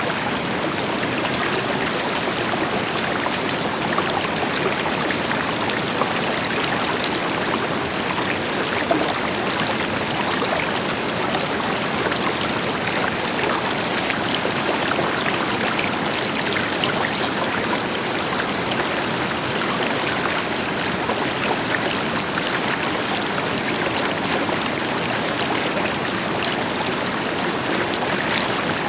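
River water flowing in a steady rush with many small splashes, and the deeper rush of a waterfall beneath it.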